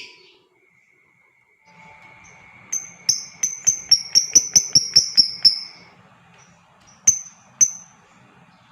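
Lovebird calling: a quick run of about a dozen sharp, high chirps in under three seconds, then two more single chirps, over a faint steady high tone.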